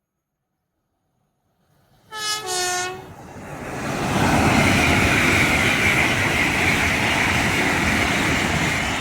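A train sounds a two-note horn about two seconds in, then passes at speed: a loud, steady rush of wheels on rail that builds over about a second and holds.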